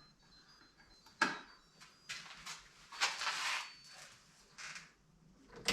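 A few short rustling and scraping noises, irregularly spaced about a second apart, with quiet gaps between: something being handled or moved about.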